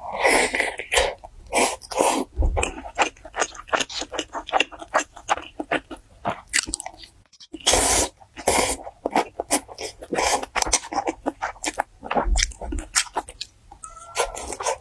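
Close-miked chewing of crunchy food: a dense run of crackles and wet mouth clicks, with a louder bite or crunch about eight seconds in.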